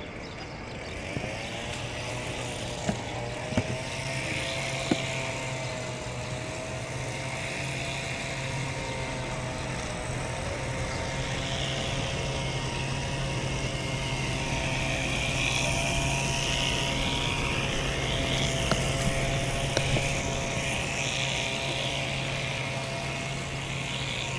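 A steady engine or motor hum with a faint wavering whine that sets in about a second in, and a few sharp clicks in the first seconds.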